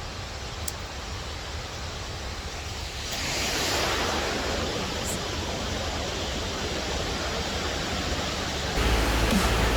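Waterfall and river rushing as a steady noise, stepping up louder and brighter about three seconds in. Music with a heavy beat comes in near the end.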